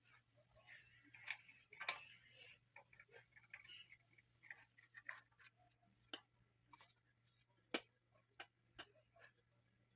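Scattered small clicks and taps, irregular and a few seconds apart, with some rustling early on, over a faint steady low hum: typical of stand fan parts being handled and fitted during repair.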